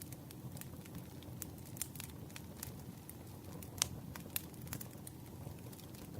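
Campfire crackling: a steady low rumble of burning wood with irregular sharp pops and snaps, one louder pop a little under four seconds in.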